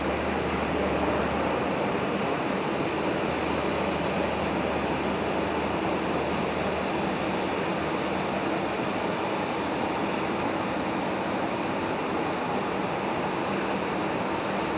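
Jet airliner in flight: a steady, even rushing noise that holds the same level throughout.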